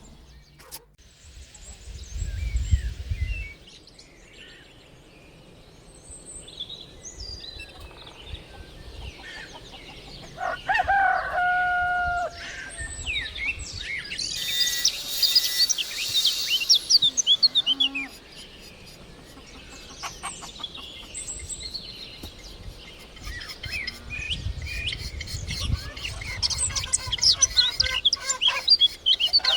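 Chickens and small birds calling, with many short high chirps and one drawn-out call about ten seconds in. Low rumbles come a couple of seconds in and again near the end.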